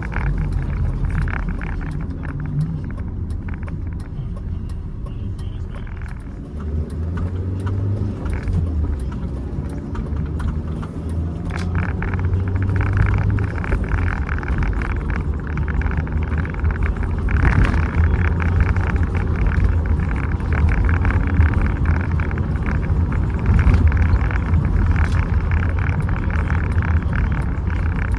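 1996 BMW Z3 being driven: its engine runs under changing load, with road and wind noise, growing somewhat louder about halfway through.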